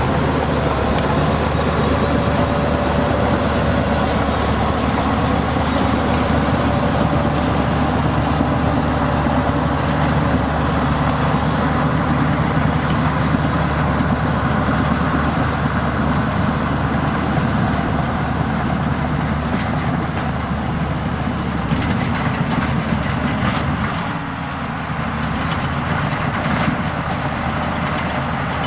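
Heavy diesel earthmoving machinery running steadily, its engine drone mixed with broad mechanical noise. The level dips briefly about 24 seconds in, and scattered clicks and knocks come in near the end.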